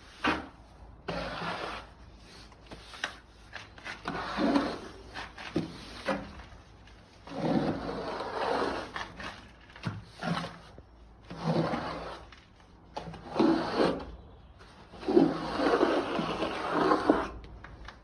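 Plastering trowel scraping and spreading plaster across a wall in repeated strokes, each a second or two long, with short pauses between.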